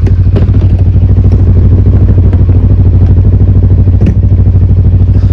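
Cyclone RX401 motorcycle engine running steadily close to the microphone, a fast even low pulsing with no revving, with a couple of light clicks over it.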